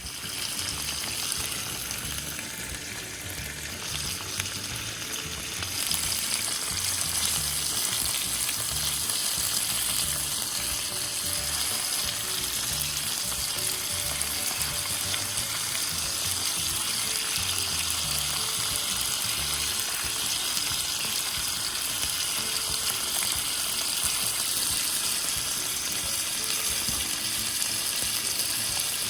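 Yakitori skewers sizzling over a campfire: a steady frying hiss that grows louder about six seconds in.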